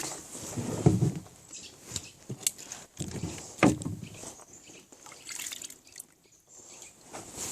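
Oars of a small rowing boat dipping and pulling through the water, two strokes about two and a half seconds apart, with light knocks in between.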